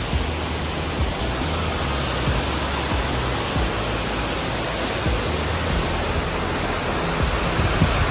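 Large waterfall with water falling steadily, a continuous even rushing noise.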